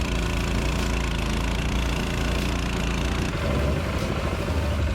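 Homemade mud motor's small pressure-washer engine running steadily while driving a boat through shallow, weedy water. The engine note shifts upward about three seconds in.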